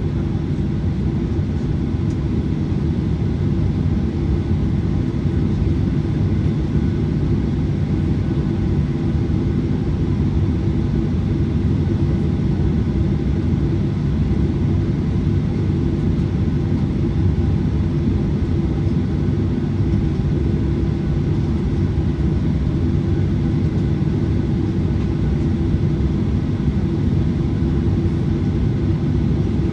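Cabin noise inside a Boeing 737-900ER, with its CFM56-7B engines running steadily at low power. It is an even low rumble with several steady humming tones over it, unchanging throughout.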